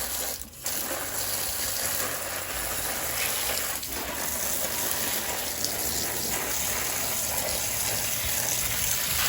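Water from a garden hose spraying onto cucumber plants, a steady gushing hiss that cuts out briefly about half a second in.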